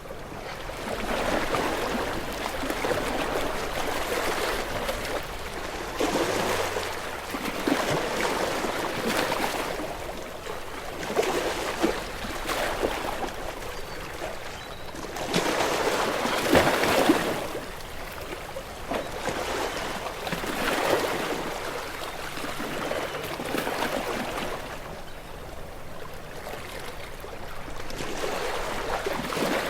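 Sea waves washing against shore rocks, the rush of water swelling and falling back every few seconds, with the biggest surge about halfway through.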